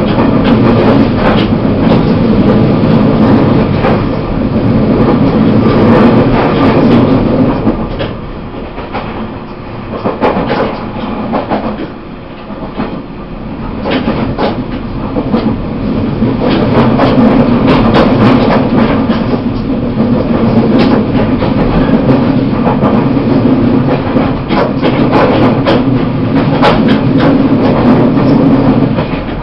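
Running sound of a Taiwan Railways E1000 push-pull Tze-Chiang express, heard on board: a steady rumble of wheels on track with frequent sharp clicks and knocks. It grows quieter for several seconds around the middle, then builds back to full loudness.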